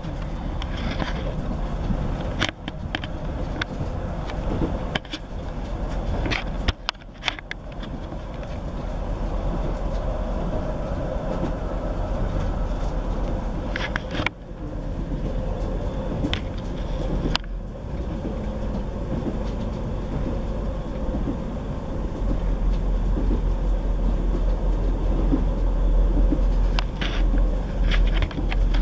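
Interior running noise of a Class 158 diesel multiple unit under way: a steady rumble and hiss from the wheels on the rails and the underfloor diesel, with a few brief clicks and knocks. The low rumble grows louder over the last several seconds.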